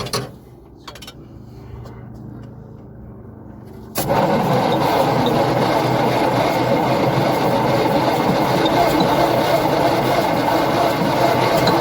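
Old International truck engine, sitting unused for 30 to 40 years, being cranked over on its starter. It starts with a faint low hum, and about four seconds in a loud, rough, continuous cranking noise sets in suddenly and carries on.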